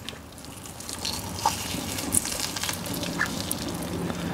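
Close-miked eating sounds: chewing fried pork cutlet, with many small crisp crackles and wet mouth sounds, getting louder about a second in.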